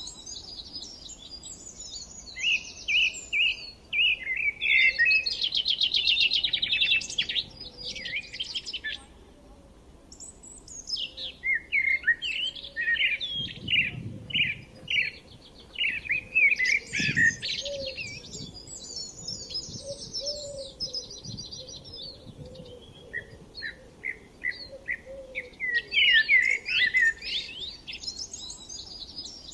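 Birds singing: phrases of quick, high chirps and trills that come one after another, with short lulls between phrases.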